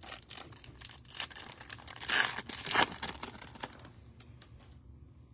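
Crinkling, tearing plastic foil wrapper of a trading-card pack being ripped open and crumpled, loudest about halfway through and dying away near the end.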